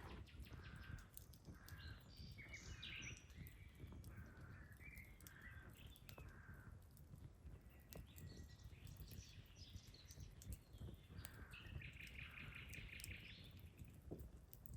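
Quiet outdoor evening ambience: birds calling in short repeated calls, with a rapid run of calls near the end, over a few sharp crackles from a wood campfire.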